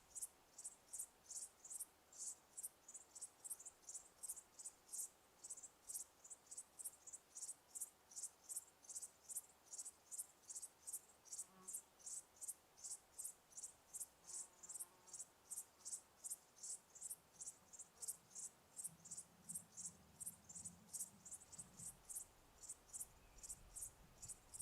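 Cricket chirping in a steady, even rhythm, about two to three short high-pitched chirps a second, faint.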